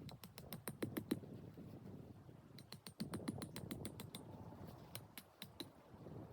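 Quick runs of sharp, light clicks and crackles: a cluster about a second in, a denser one around three to four seconds in and a few more near five seconds, over a faint low background.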